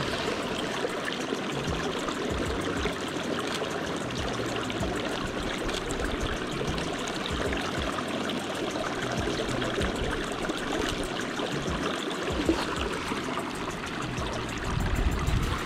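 Small river flowing: a steady rush and trickle of water, with a brief low rumble near the end.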